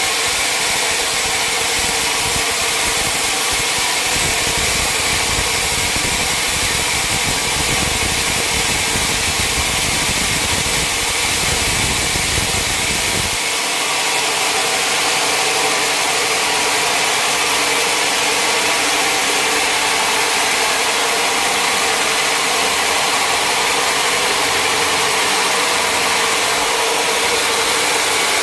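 Sawmill machinery running steadily, with a constant whine over a noisy hum. A low rumble underneath cuts off about halfway through.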